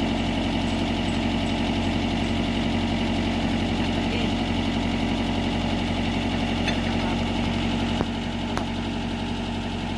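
Diesel engine of a Mitsubishi MS030 backhoe running steadily at an even, low speed, with a sharp click about eight seconds in, after which it runs slightly quieter.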